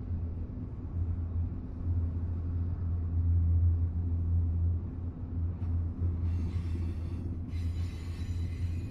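Freight train of empty double-stack well cars rolling past, a steady low rumble that swells and eases. About six seconds in, and again from about seven and a half seconds, a high squeal of steel wheels on the rails joins it.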